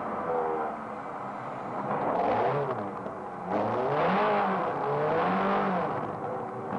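Ferrari sports car engine heard from inside the cabin, revving up and down as the car is driven hard through corners. Its pitch rises and falls several times, with a sudden louder rise about three and a half seconds in.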